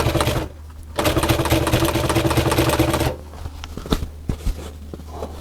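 Sewing machine stitching in short runs. It stops briefly about half a second in, runs again for about two seconds and then stops, followed by a few light clicks.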